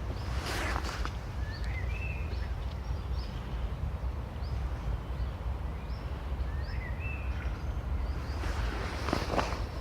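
Small woodland birds calling in short chirps over a steady low rumble, with brief rustling in leaf litter about half a second in and again near the end.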